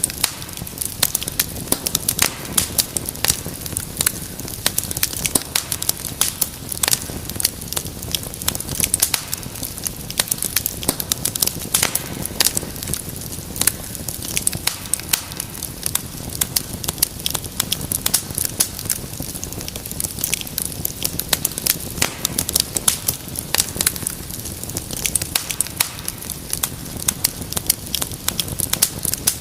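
Wood fire crackling: many irregular sharp pops and snaps every second over a steady low rumble of burning.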